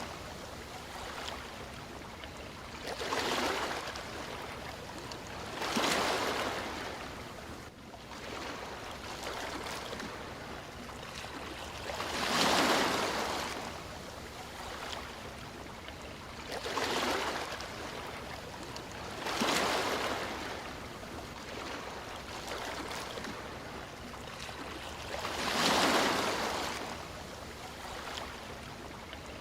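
Sea waves breaking and washing up a shore, about six swells of surf rising and falling over a steady background wash.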